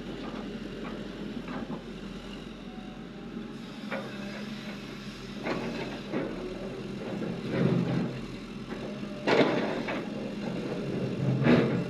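Excavator's diesel engine running steadily, with four loud clanks and thuds of rock and steel as the bucket loads quarry waste into a dump truck. The loudest strikes come near the end.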